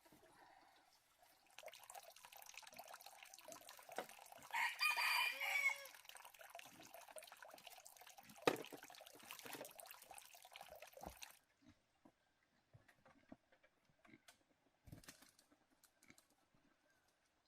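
A steady hiss that cuts off suddenly about eleven seconds in. About five seconds in, one loud pitched animal call lasting just over a second rises above it. A sharp click comes partway through, and scattered faint clicks follow after the hiss stops.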